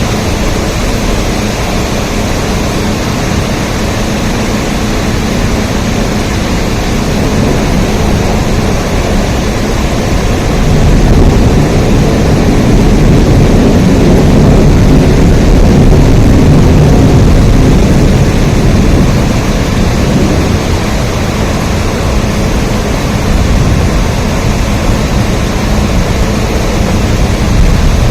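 Steady rain, a dense even hiss. A deeper rumble swells up about a third of the way in and fades again past the middle.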